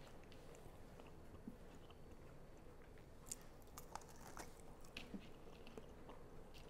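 Faint sounds of a person biting and chewing a crispy smoked chicken wing, with a few soft crunches and clicks about three to five seconds in.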